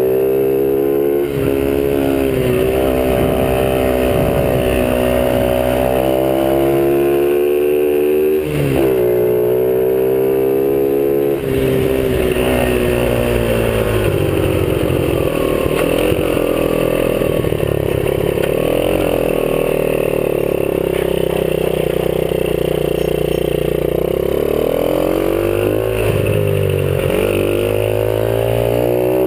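50cc dirt bike engine running hard while ridden, its pitch dropping and climbing again several times as the throttle is eased off and opened up, with a steadier, rougher stretch in the middle.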